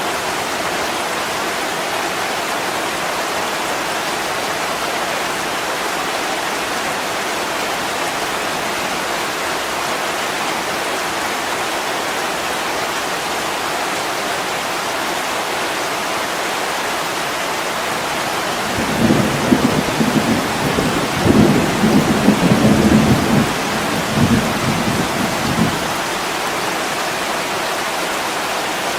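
Heavy rain on window glass, a steady even hiss. A rumble of thunder rolls over it for about seven seconds, starting about two-thirds of the way in.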